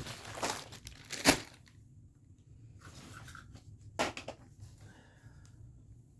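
Household clutter being handled and moved during cleaning: noisy rustling for the first couple of seconds, a sharp knock a little over a second in, and another knock about four seconds in.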